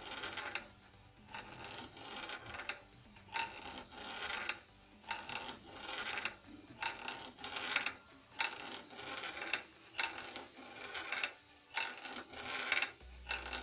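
Rebuilt Jawa 634 crankshaft turned by hand in V-blocks, its journals scraping and squeaking metal on metal in repeated strokes about once a second as its runout is read on a dial indicator.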